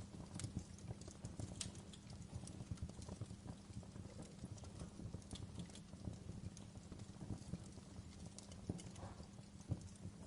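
Wood fire burning in a fireplace, crackling in a dense run of small snaps, with a few louder pops.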